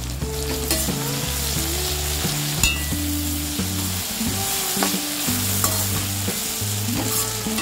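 Diced green brinjal sizzling in oil in a stainless steel kadai as a spatula stirs it, with a few sharp scrapes and knocks of the spatula against the pan.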